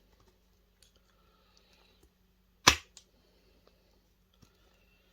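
Snips cutting through hard plastic around a small brass insert: one sharp snap about two and a half seconds in, with small clicks and taps of handling around it.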